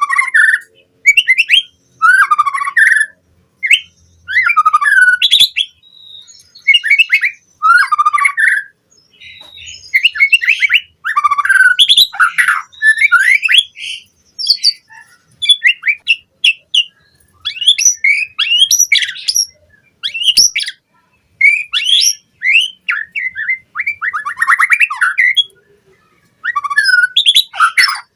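White-rumped shama singing a fast, varied song: short phrases of rapid trills, chatters and whistles, one after another with only brief pauses.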